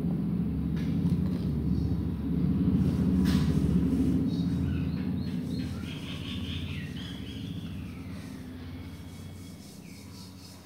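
Low rumble of a passing train, loudest in the first half and slowly fading away toward the end.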